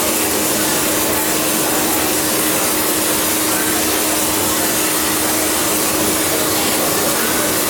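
Blacksmith's forge running hard with its blower: a loud, steady rushing noise with a steady hum underneath.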